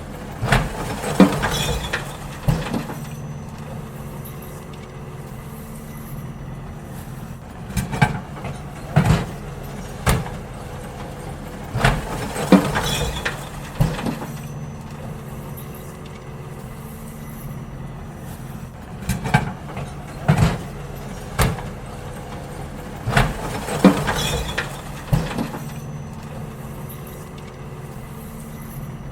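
Garbage truck engine running steadily while bins are emptied, with clusters of loud knocks and clattering bangs from the bins and lifter every few seconds.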